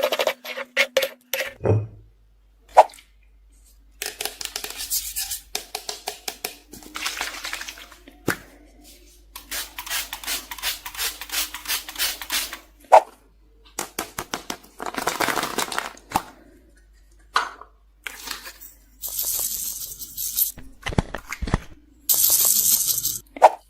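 Slime being handled and mixed with small hard items, giving irregular runs of sharp clicks, crackles and clinks, with two short high hissing bursts near the end.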